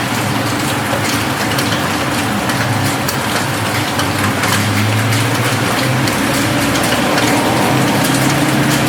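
Steady rain on a roof, a dense hiss of many small drop ticks, with a low steady hum underneath.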